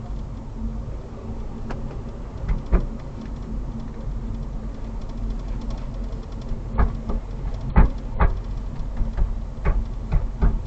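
Steady road rumble inside a moving Nissan Kicks, with sharp, irregular knocks from the rear cargo area: one about a third of the way in, then a run of them close together in the second half. It is the rear knocking over bumps that the technician traced mainly to the add-on cargo-floor leveling kit, whose lid was not fixed down and knocked about.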